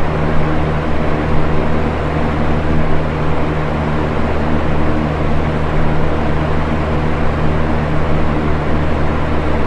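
Box fan running steadily: an even rush of air from the blades over a low, constant motor hum.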